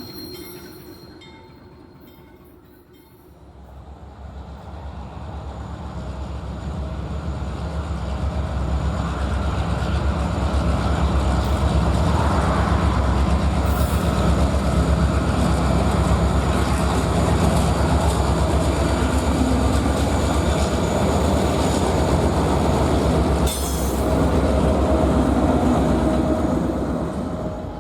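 Diesel freight train passing: after a short fade near the start, the locomotive's engine rumble swells over several seconds, then runs steadily along with the noise of the train rolling on the rails.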